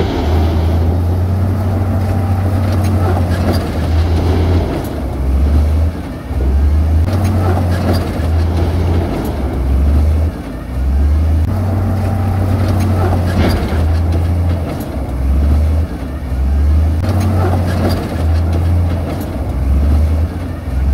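Heavy diesel earth-moving machinery running under load. The engine's low note keeps stepping up and down between two speeds as the machine works, with occasional short clanks.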